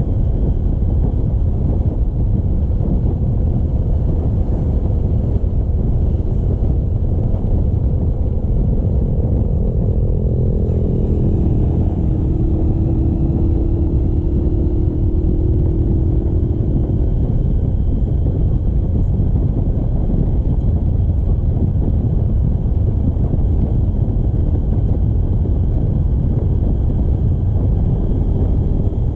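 Steady rumble of wind and road noise on the microphone of a moving motorcycle, with a faint engine tone rising slightly in pitch in the middle.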